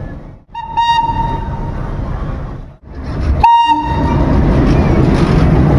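Metre-gauge train horn sounding two short blasts, the first about half a second in and the second about three and a half seconds in, over the steady rumble of a train running on the track. The rumble grows louder after the second blast.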